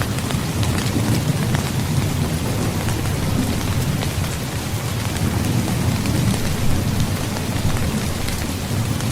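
Heavy rain falling steadily, with scattered drop ticks over a continuous low rumble of distant thunder.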